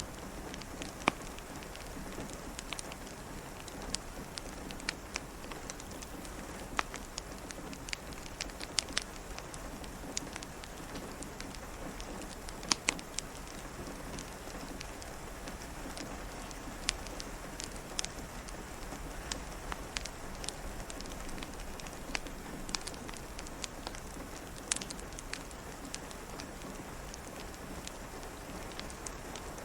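Steady rain pattering against a window, with a wood fire crackling: scattered sharp pops, a few of them louder.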